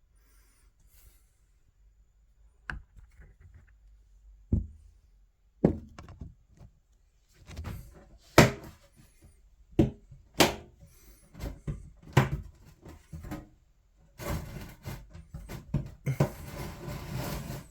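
Irregular knocks and thumps of things being handled, several of them sharp and loud, followed near the end by a few seconds of rustling.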